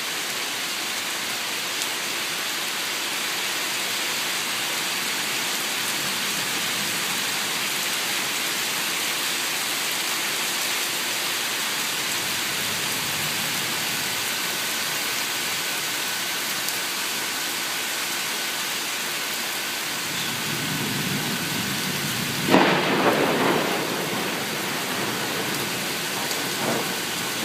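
Steady rain falling, an even hiss of drops. About twenty seconds in, a low rumble of thunder builds and peaks a few seconds later.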